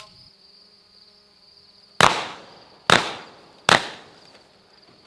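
Three shotgun shots in quick succession, a little under a second apart, starting about two seconds in. Under them, a steady high chirring of insects.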